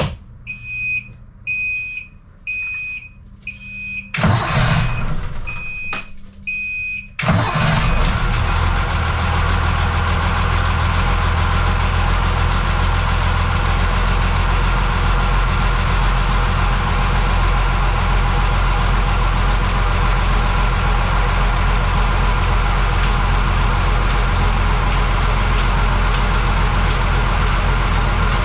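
Marine diesel engine being started: the instrument panel alarm beeps steadily with the ignition on, the starter cranks briefly about four seconds in, cranks again about seven seconds in and the engine catches. It then idles steadily, drawing antifreeze through the seawater side of the cooling system for winter layup.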